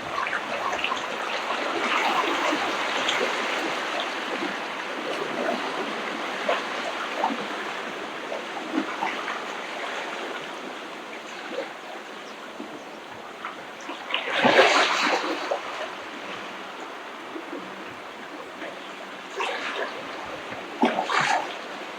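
Small ocean waves washing and splashing at the shoreline, the water fizzing and crackling as it spreads and runs back. A louder wash about two-thirds of the way through, and a few short louder bursts near the end.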